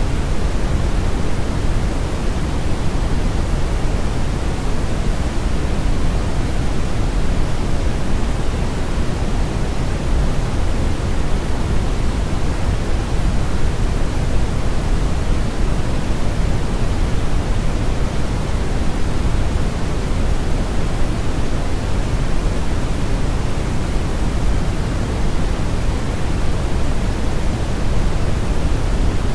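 Steady brown noise: an even, unchanging rushing hiss, heaviest in the low end and with the highs rolled off, like a rough river current or strong wind.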